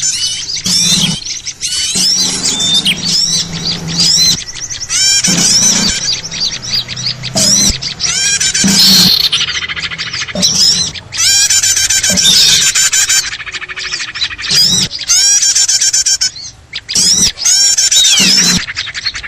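A dense, loud chorus of many small birds chirping and twittering over one another in quick, overlapping bursts: a bird-lure recording of small-bird calls.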